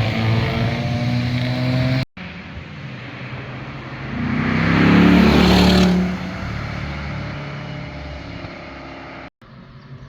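Cars driving by on a mountain road, their engines and exhausts audible. One fades away, then after a cut another approaches, passes close about halfway through with its engine note dropping in pitch, and recedes.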